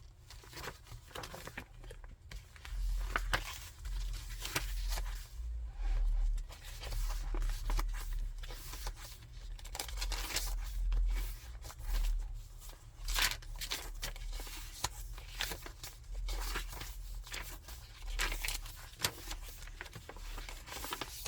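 Paper pages of a thick handmade junk journal being turned and handled: repeated irregular rustling and crinkling of paper, vellum and card.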